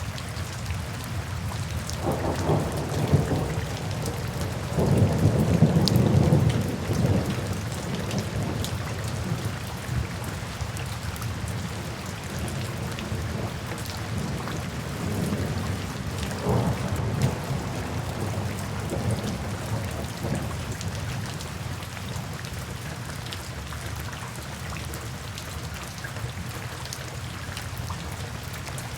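Steady rain falling on forest foliage, with low rolls of thunder swelling twice in the first several seconds, the second the loudest, and a fainter roll about halfway through.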